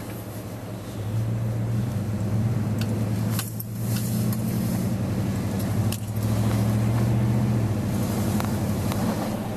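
A motor engine running with a steady low hum. It grows louder about a second in and drops back near the end, with scattered light clicks and knocks over it.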